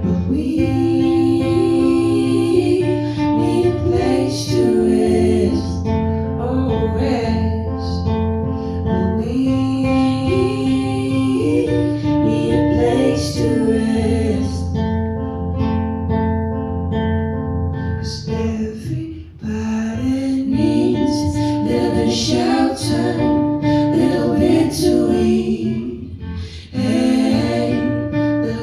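A song played on acoustic guitar with a voice singing over it. The music briefly dips twice in the second half.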